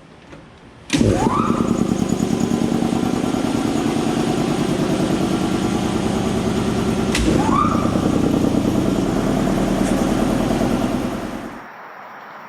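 A motor starts suddenly with a quick rise in pitch, runs steadily with a fast pulsing rhythm, surges again with a click about seven seconds in, and winds down and stops near the end.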